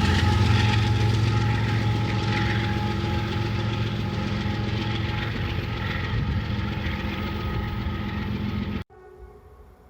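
Diesel freight locomotive engines running as a train passes, the sound slowly fading, then cutting off suddenly near the end.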